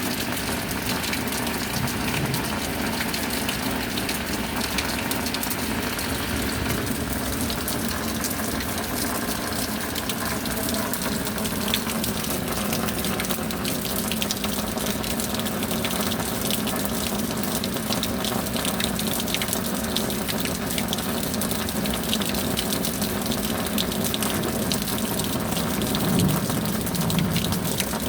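Steady rain, an even wash of noise dense with the patter of many drops, swelling slightly near the end.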